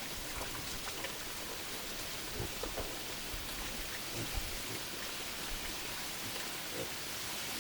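Steady hiss, strongest in the upper range, with scattered faint ticks and taps through it.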